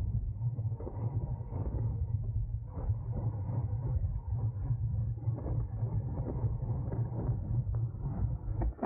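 Wind rumbling over a bicycle-mounted camera's microphone at race speed: a steady low rumble with road and tyre noise and small knocks.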